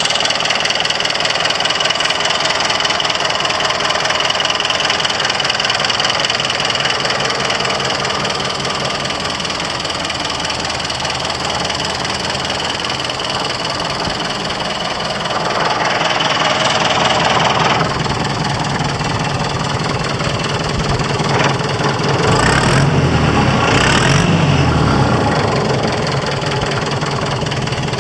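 Hanomag R28 tractor's diesel engine running with a knocking clatter. It grows louder twice, for a couple of seconds midway and for a few seconds near the end.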